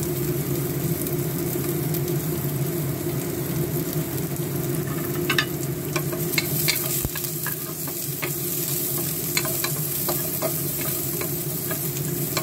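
Chopped garlic and sliced onion sizzling as they fry in a little oil in a nonstick pot, stirred with a wooden spatula; from about five seconds in, the spatula's stirring adds scattered clicks and scrapes against the pot.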